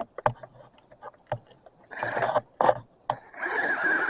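Toy RC car driven in short bursts through grass: spurts of electric-motor and tyre noise among scattered clicks and knocks, with grass getting wound around a wheel.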